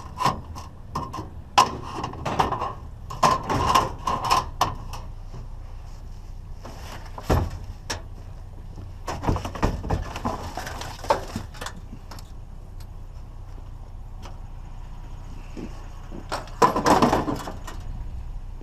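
Knocks and clatter of scrap being handled and set down, in several bursts with quieter handling in between.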